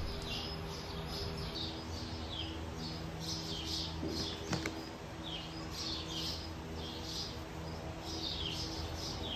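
Small birds chirping: short, high, falling chirps repeated throughout, over a faint steady low hum.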